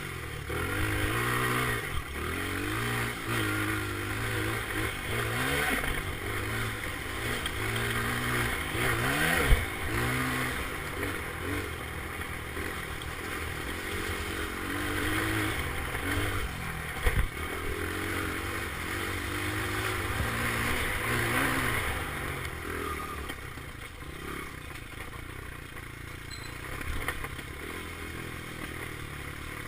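Dirt bike engine revving up and falling off again and again as it is ridden, its pitch rising and dropping every second or so. Two sharp knocks come about a third and about halfway through.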